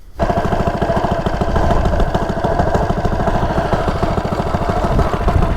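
Coleman CT100U minibike's small single-cylinder four-stroke engine running steadily through an aftermarket header and mini muffler, a loud, even stream of firing pulses that starts suddenly just after the beginning.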